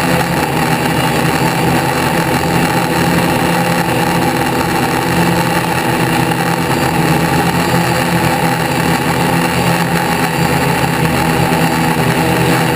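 Car engine idling steadily and loudly close by, holding an even pitch throughout.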